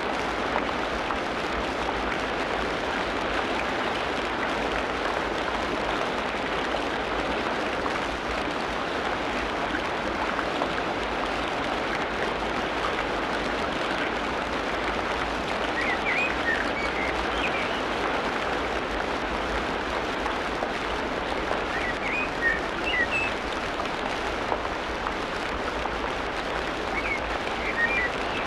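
Tropical rainforest ambience: a steady, dense hiss like rain pattering on foliage, with short clusters of high bird chirps about halfway through, again a few seconds later, and near the end.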